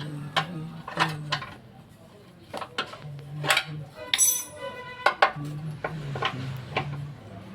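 Metal hand tools clinking and clattering: a handful of sharp clinks, with one ringing ping about four seconds in.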